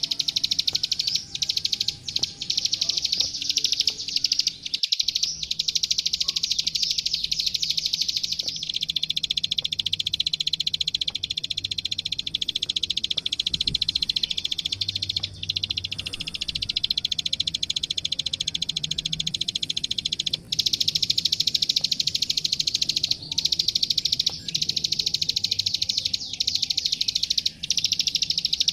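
A klik-klik (ciblek sawah), a small prinia, singing a long, very rapid, high-pitched clicking trill with only a few short breaks.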